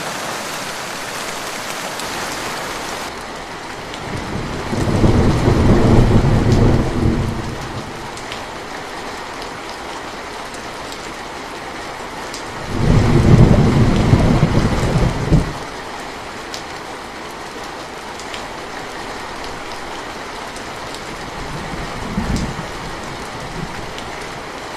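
Steady rain falling, with thunder rumbling twice, each roll lasting about three seconds, and a short faint rumble near the end.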